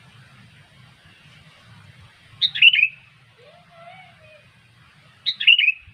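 Sooty-headed bulbul giving two short, loud call phrases about three seconds apart, with a faint low whistle between them over a steady low hum.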